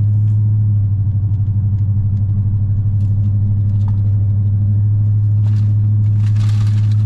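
Vehicle engine idling with a steady low drone, heard from inside the cabin. Brief rustling twice near the end.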